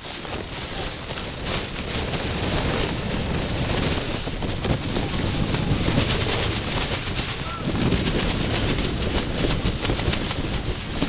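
Wind buffeting the microphone: an uneven, rumbling rush of noise that swells and eases.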